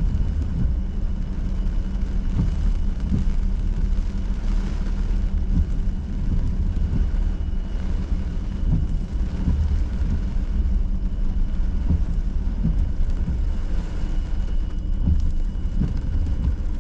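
A car driving slowly through heavy hurricane rain, heard from inside the cabin: a steady low rumble of engine and tyres on a flooded road, with rain on the car.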